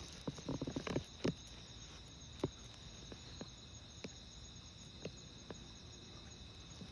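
Insects chirping in a steady, high, even drone, with a few soft footsteps in the first second and then scattered light ticks.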